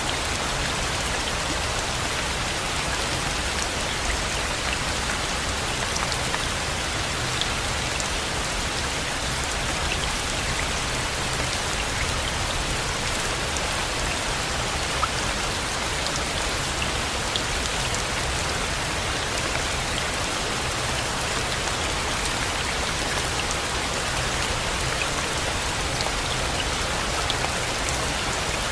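Steady rain falling, an even hiss with scattered single drops ticking sharply through it.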